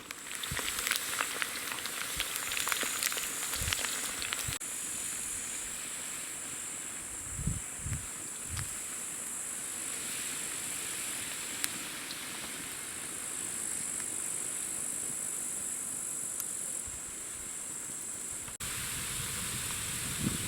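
Wood fire crackling and snapping over a steady high hiss, with a few dull low thuds in the middle.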